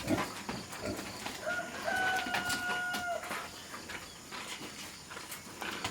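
A rooster crowing once, a held call of about a second and a half that drops slightly in pitch at its end, over scattered faint knocks and rustling.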